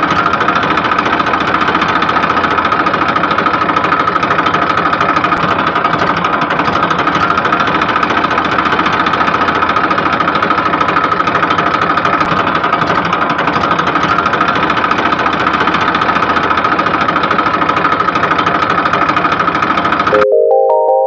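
Mini tractor toy's engine sound running steadily with a fast, even knocking chug. It cuts off abruptly near the end, and a short electronic tune starts.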